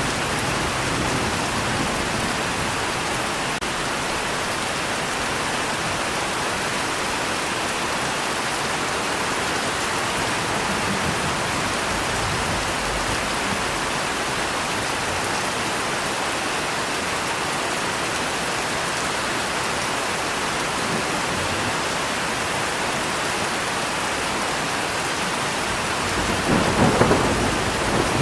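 Steady rain falling, with a roll of thunder rumbling in about two seconds before the end.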